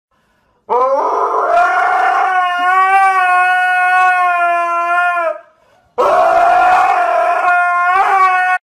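Dog howling: two long howls, the first rising in pitch at the start and then held steady for about four and a half seconds, the second starting after a short break and cut off abruptly.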